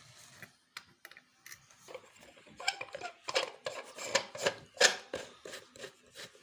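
Metal ceiling-fan hardware clicking and clinking as it is handled and a screw is fitted. It is a quick run of small knocks and rattles, busiest and loudest in the middle seconds.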